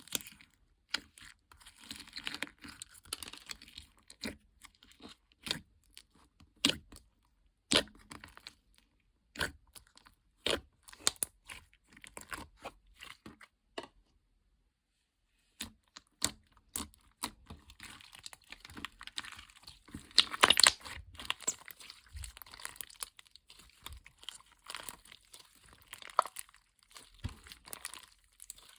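Paper and plastic being handled up close: crinkling, rustling and tearing, broken by sharp taps and clicks. A brief dead silence comes a little past the middle, and the loudest stretch of crinkling follows a few seconds later.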